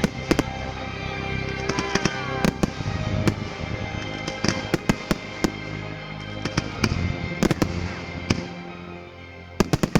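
Fireworks display: shells bursting in a string of sharp bangs, more than a dozen, with a quick cluster near the end, over music played along with the show.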